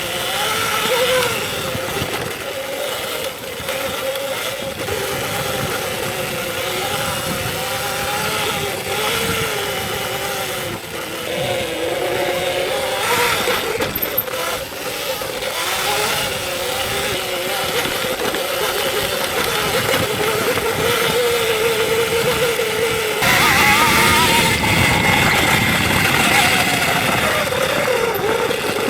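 Electric dirt bike riding on a trail: the motor's whine rises and falls as the throttle and speed change, over steady rushing noise from wind and tyres. The ride gets louder for the last few seconds.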